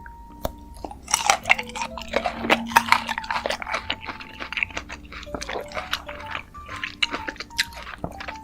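Close-miked crunchy chewing and biting of fruit, dense and crisp from about a second in, over soft background music with long held notes.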